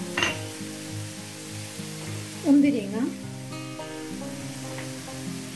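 Banana and coconut filling sizzling gently in ghee in a frying pan, under soft background music, with a brief click just after the start.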